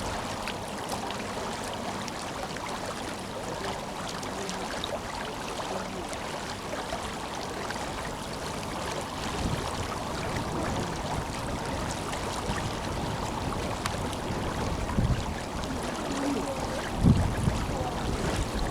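Tenryū River flowing strongly, a steady rush of water. A short gust of wind hits the microphone near the end.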